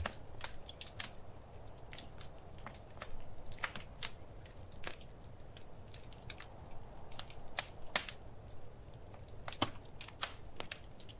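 Wood fire crackling, with irregular sharp pops and snaps over a faint, steady low rumble.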